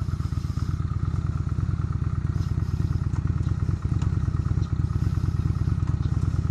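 Motorcycle engine running steadily at low revs, its exhaust beating in a fast, even pulse with no revving.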